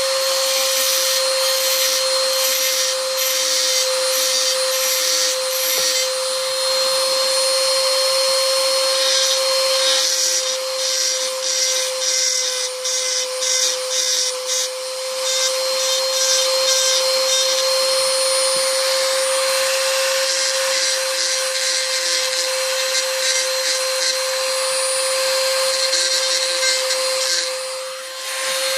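A high-speed handheld rotary tool running steadily at a constant pitch, its cutting bit grinding into a toy car's body. The grinding noise rises and falls as the bit bites, and it eases off briefly near the end.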